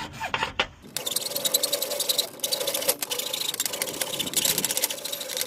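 Hand saw cutting through a plastic sprinkler pipe in fast back-and-forth strokes, starting about a second in, with brief pauses twice.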